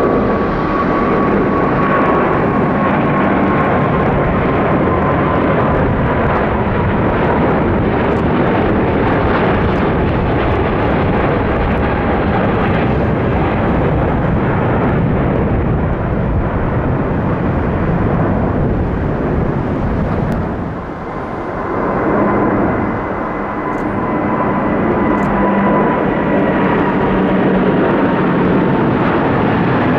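Jet airliner engines running loud as the aircraft passes, a rushing roar with a thin fan whine that slowly falls in pitch. The noise dips briefly about two-thirds of the way through, then swells again with a similar whine.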